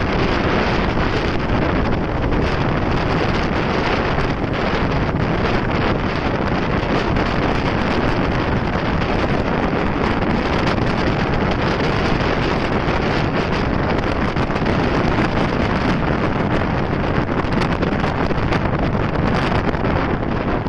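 Wind rushing over the microphone of a riding motorcycle, a loud, steady rush mixed with the bike's running and road noise.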